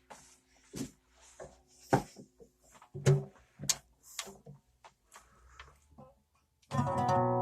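Scattered clicks, taps and knocks with faint brief string tones, then a plucked string instrument sounds a full chord near the end.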